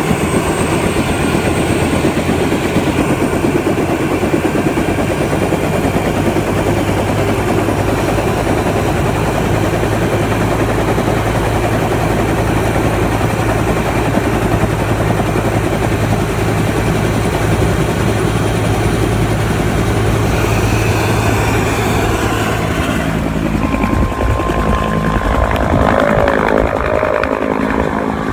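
Helicopter running loud and steady with its rotor and engine noise. About 22 seconds in, the sound changes: the high hiss drops away and a few steady tones come through.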